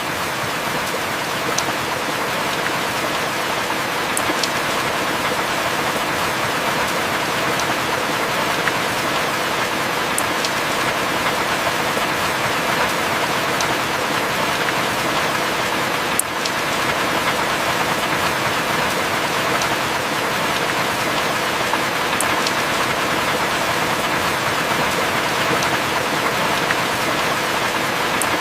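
Heavy rain falling steadily as an even hiss, with now and then a single sharp drip or drop tick on top.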